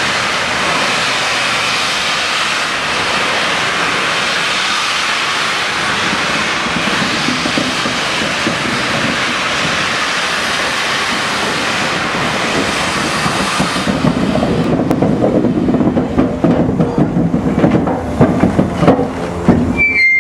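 Steam locomotive Tornado, an LNER Peppercorn A1 Pacific, with a loud steady hiss of escaping steam for about fourteen seconds. The hiss then drops away and irregular knocking and rumbling from the locomotive take over and grow louder.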